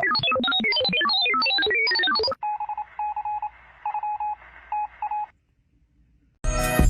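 Telephone keypad tones dialed in a quick run of beeps at changing pitches, then a pulsing electronic phone ring tone from about two seconds in. Music starts just before the end.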